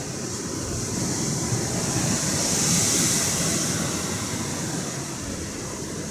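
Atlantic Ocean surf: a wave rushes in, building to a peak about halfway through and then slowly ebbing away.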